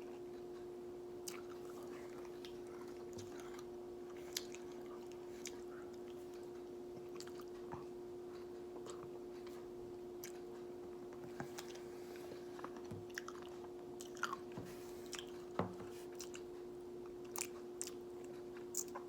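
A person eating Dairy Queen Blizzard soft-serve mixed with M&M candies: scattered soft chewing clicks and crunches, more frequent in the second half, over a steady hum.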